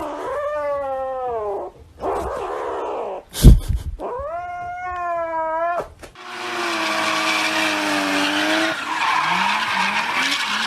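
A cat yowling in long drawn-out calls that bend in pitch, with a sharp loud knock about three and a half seconds in and shorter rising calls near the end.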